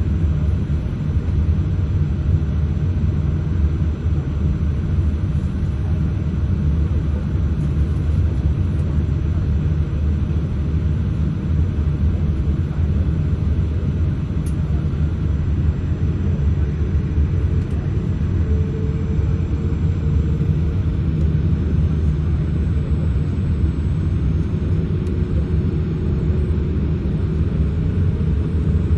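Boeing 787-8 cabin noise during taxiing, heard from inside the cabin: a steady low rumble of the idling jet engines and rolling airframe. A faint steady whine joins in about two-thirds of the way through.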